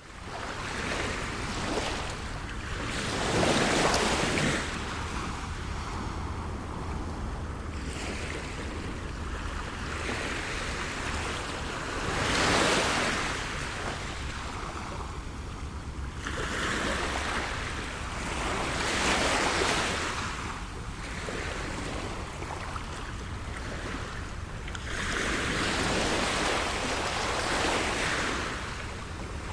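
Ocean waves breaking on a shore. The surf noise swells and ebbs every several seconds.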